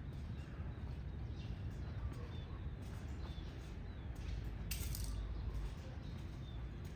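Faint outdoor background: a steady low rumble with a few short, high chirps, and a brief hiss about five seconds in.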